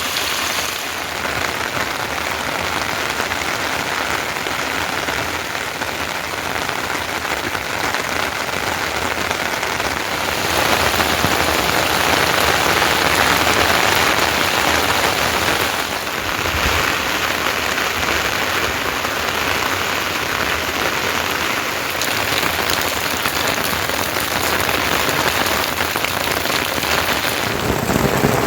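Steady rain falling, a dense even patter that grows heavier for several seconds in the middle.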